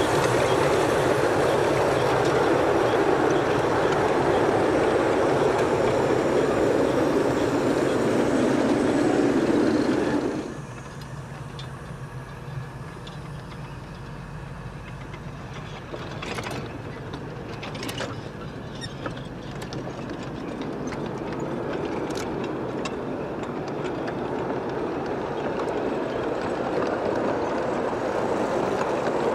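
Ride-on miniature freight train's cars rolling past, their wheels clattering on the rails. About ten seconds in it drops to a quieter stretch with a few sharp clicks, then grows steadily louder again as more cars pass.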